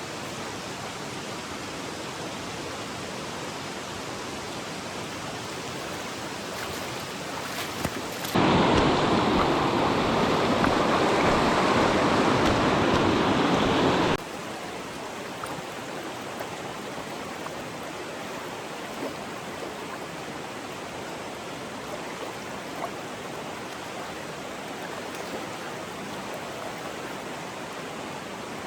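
Steady rush of a small mountain stream. About a third of the way in, the water turns much louder for roughly six seconds, starting and stopping abruptly.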